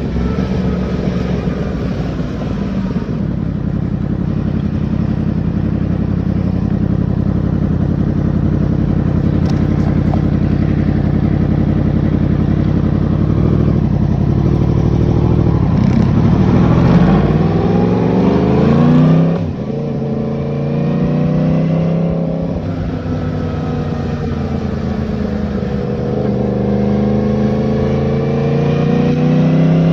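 Yamaha MT-10's crossplane inline-four running at a steady pitch, then accelerating from about halfway: the pitch climbs, drops sharply at a gear change, climbs again, and after another shift rises more slowly near the end.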